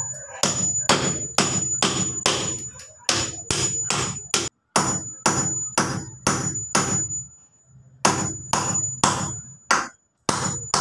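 Hammer driving nails into wood: steady, evenly spaced blows about two a second, with two short silent breaks.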